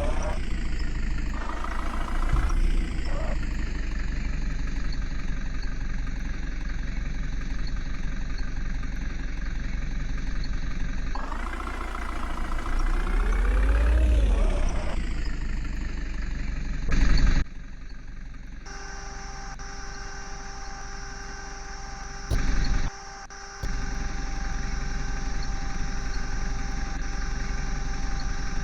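Heavy diesel engine of a JCB digger running, revving up and falling back while it works, then settling into a steady idle about two-thirds of the way through. There is a brief loud burst about 17 seconds in and another near 22 seconds.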